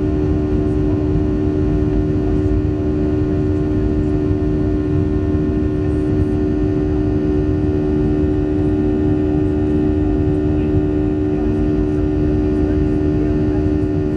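Steady engine drone of a Boeing 737-700's twin CFM56-7B turbofans, heard inside the passenger cabin: a constant rumble with a strong, steady low hum.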